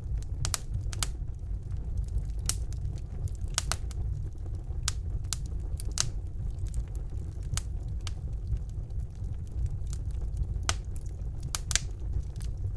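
Wood fire burning in a fireplace: a steady low rumble of flames, with a dozen or so sharp crackles and pops at irregular intervals.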